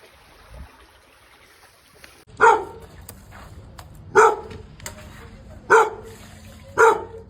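A dog barking four times, at intervals of one to two seconds, starting about two seconds in.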